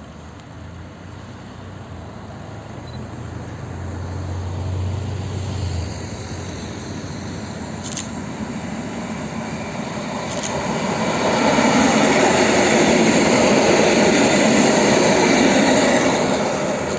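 A train passing by: a rushing rumble that builds and is loudest for several seconds near the end, with a low hum early on and two sharp clicks in the middle.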